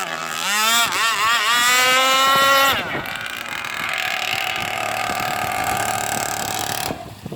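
Two-stroke petrol engine of a radio-controlled racing boat revving, its pitch swinging up and down with the throttle and then climbing to a high held note that cuts back about three seconds in. A fainter, steady engine note carries on and drops away near the end.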